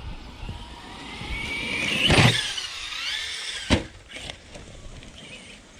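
Electric whine of an RC truck's Castle 1721 1260kv brushless motor, rising in pitch as it accelerates, with a loud thump about two seconds in. The whine then falls away, and a second, sharper knock follows a little later.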